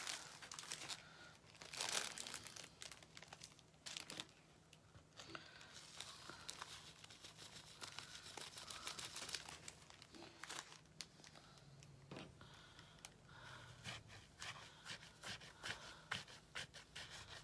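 Faint, irregular rustling and crinkling of craft materials being handled, with scattered small clicks.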